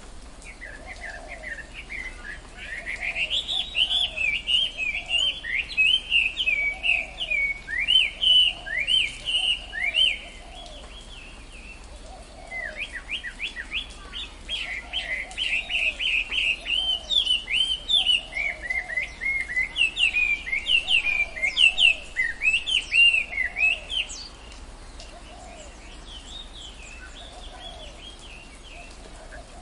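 Tropical forest birdsong: a bird gives two long bouts of fast, high chirping notes, each running several seconds, with a pause between them. Under them, a lower call repeats about once a second.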